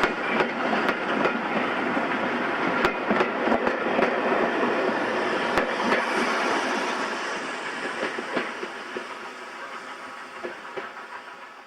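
Steam train hauled by locomotive No 65 passing, its carriage wheels clicking over the rail joints. The rumble and clicks fade steadily over the last few seconds as the train draws away.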